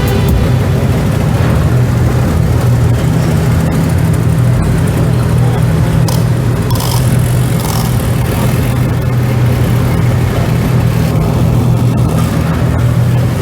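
A car engine running steadily at idle: a constant low drone that holds the same pitch without revving.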